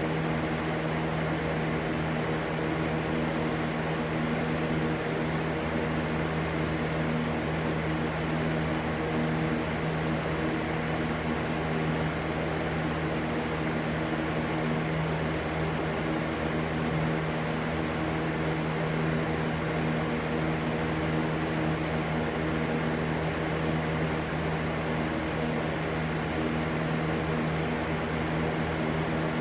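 Electric fan running steadily: an even rushing white noise over a constant motor hum made of several steady low tones.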